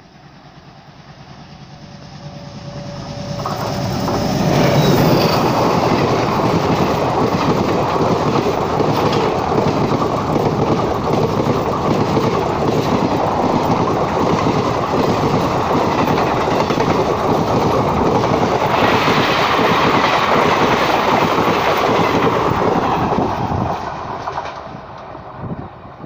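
Indian Railways passenger express train approaching and passing close by at speed. It grows louder over the first few seconds, then the coaches go by in a long steady rush with dense clatter of wheels on the rails. It falls away sharply about two seconds before the end as the last coach passes.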